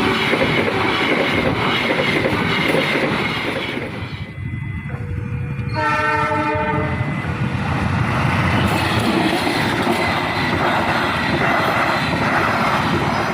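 Train passing with wheels rumbling and clattering over the rails, and a short locomotive horn blast about six seconds in.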